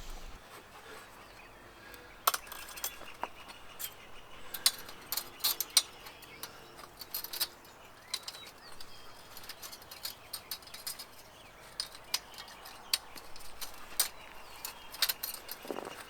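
Scattered light clicks and metallic clinks from handling the sawmill's band blade and its parts during a blade change, at irregular intervals.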